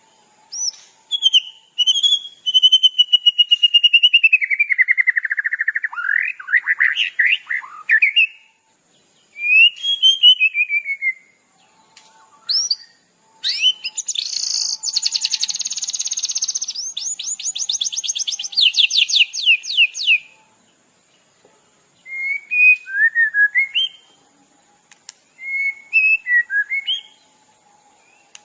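Songbird song from a 'masteran' song-tutor track: varied phrases of whistled notes, first a long descending warble, then about halfway through a fast run of rising sweeps, then short chirping calls near the end.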